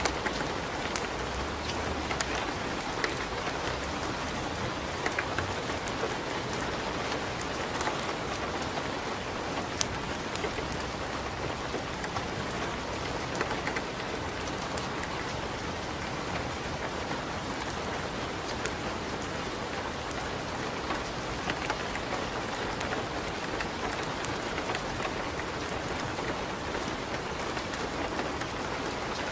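Steady rain with irregular sharp pops and crackles, as of a wood fire burning in a fireplace.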